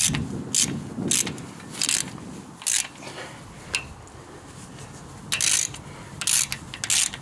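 Hand tools working a broken, corroded bolt out of a Ford 302 small-block: a series of short, irregular metal clicks and scrapes, roughly one every half-second to second.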